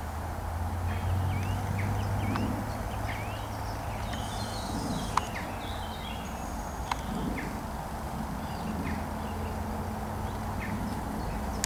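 Open-field ambience: scattered short bird chirps over a low steady rumble, with two sharp clicks about five and seven seconds in.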